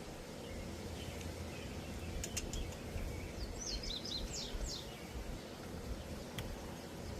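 Outdoor background noise with a steady low rumble, and a small bird chirping a quick run of short high notes about halfway through. There are a couple of sharp clicks as well.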